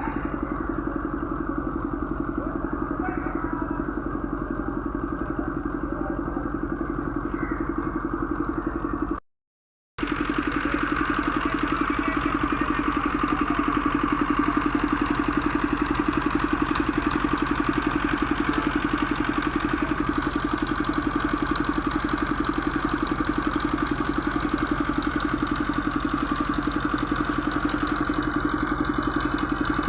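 A large engine idling steadily with an even pulse. The sound cuts out completely for under a second about nine seconds in, then carries on unchanged.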